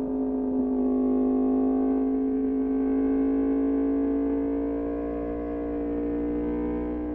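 Yamaha MT-10's crossplane inline-four engine running through an Austin Racing exhaust, holding a steady note whose pitch climbs slowly and evenly throughout.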